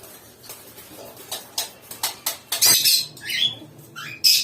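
Lovebirds chirping: a few soft clicks, then a run of sharp, high chirps from about two and a half seconds in, ending on a loud one.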